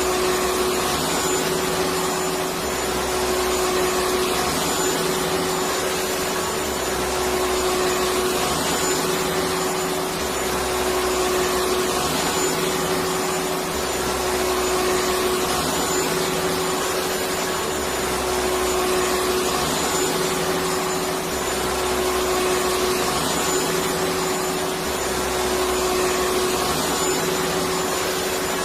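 Electric vacuum cleaner running steadily: a continuous rush of air with a steady motor whine, unchanging throughout.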